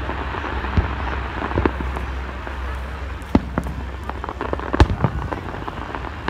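Aerial firework shells bursting in the sky: a string of sharp bangs, the loudest about five seconds in, with smaller crackles between them over a steady low rumble.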